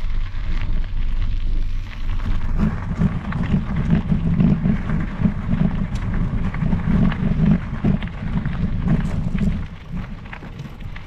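Wind rumbling on the microphone of a moving mountain bike, with crackling tyre noise from the trail surface; it swells in the middle and eases near the end.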